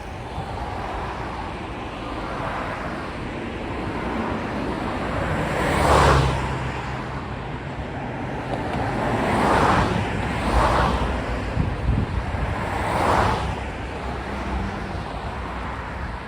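Vehicles passing one after another, each a swell of tyre and road noise that rises and fades, four passes in all, over a steady low rumble and wind on the microphone.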